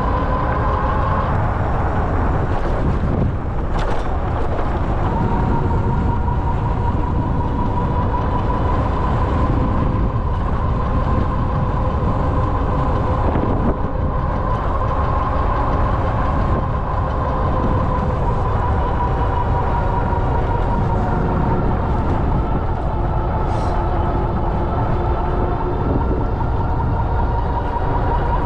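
Ariel Rider Grizzly e-bike's electric hub motor whining steadily under way, its pitch drifting slightly with speed, over heavy low wind and tyre rumble. A brief click about four seconds in.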